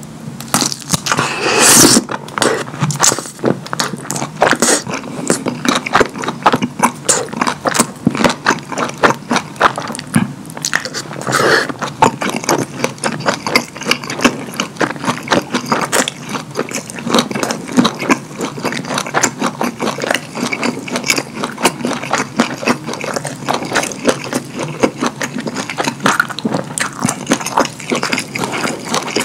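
Close-up chewing of a bite of kielbasa sausage with cheese sauce: rapid mouth clicks and smacking, with a sharper biting sound about one to two seconds in.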